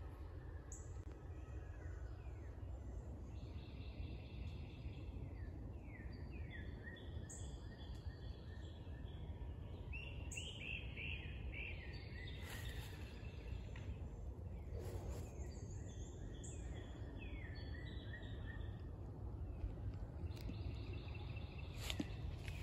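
Small birds calling in woodland: groups of short downward-sweeping notes and pulsed trills, over a steady low rumble.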